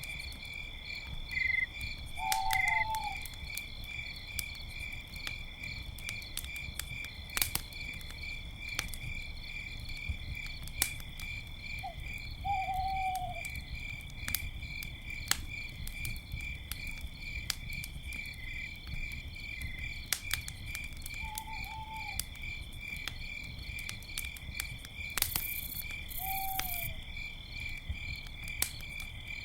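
Crickets chirping steadily, with a campfire crackling in sharp pops throughout and four short, slightly falling owl calls scattered through, plus a brief hiss from the fire near the end.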